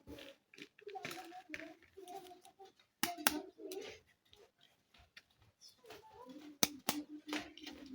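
Small plastic toy kitchen pieces being handled, with irregular tapping and rustling and several sharp plastic clicks, two close together about three seconds in and two more near the end.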